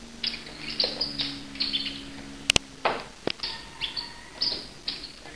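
A bird chirping in a quick run of short, high notes, several a second, with two sharp clicks about halfway through.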